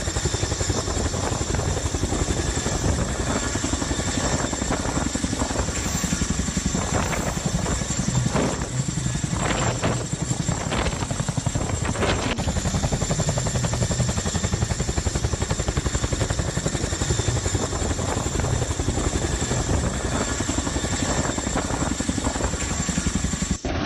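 Helicopter running close by, its rotor beating in a steady rapid rhythm over a constant high engine whine.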